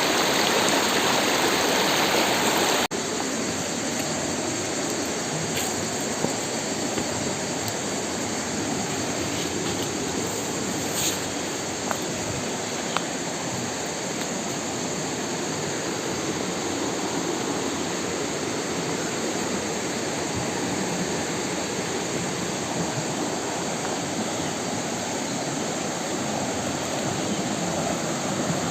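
Steady rushing water of a mountain stream or waterfall, a constant dense hiss, stepping down slightly in level about three seconds in.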